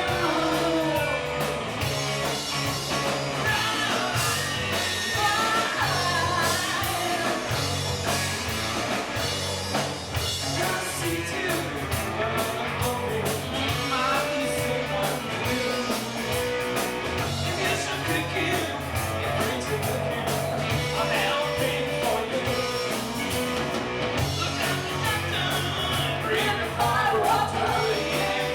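Live rock band playing with a woman singing lead: bass, drums and guitar under the vocal.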